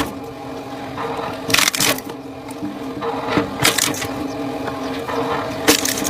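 Firewood being split: wood cracking and splintering in three sharp loud cracks about two seconds apart, over a steady machine hum.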